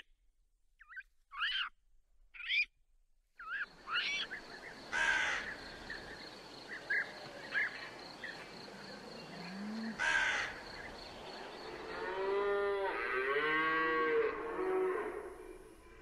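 A few short calls over near quiet, then a crow cawing several times, separately. Near the end, cattle mooing in long pitched calls, one after another.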